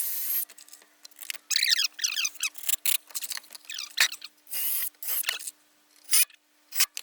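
Plywood and boards being handled and fitted together: a string of scrapes and knocks, with squeaky rubbing about two seconds in.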